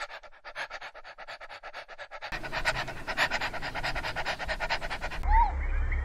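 A small dog panting fast and rhythmically, about seven or eight quick breaths a second. Near the end the panting stops and a short high chirp is heard.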